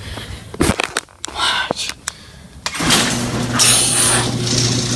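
A few clicks and knocks, then, a little under three seconds in, an electric garage door opener starts up and runs steadily with a low hum as the door moves.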